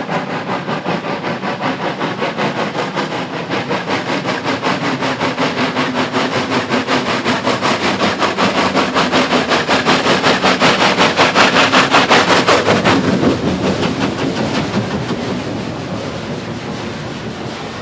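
Steam locomotive working hard, its exhaust beating in a fast, even rhythm of about four beats a second and growing louder as it approaches. About thirteen seconds in, the beats cut off as it passes, leaving the fading rumble of the train rolling by.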